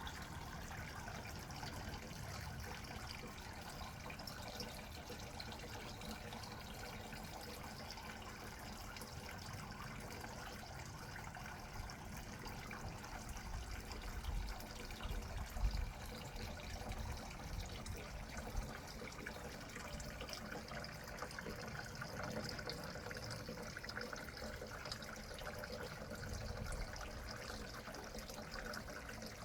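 Steady running, trickling water, with a few low bumps about halfway through.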